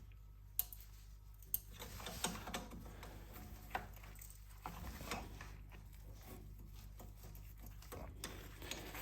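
Sparse light clicks and scrapes of hand work on a car's front strut, working loose the clip that holds the brake line, over a steady low hum.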